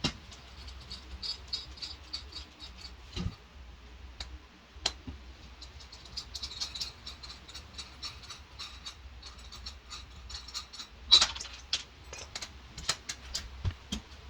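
Irregular light clicks, ticks and rattles from small hard objects being handled, with a sharper knock about eleven seconds in.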